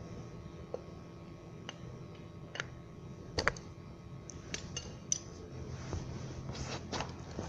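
Scattered metallic clicks and taps of hand tools and small parts being handled during a pressure washer repair, the strongest about halfway through, over a steady low hum.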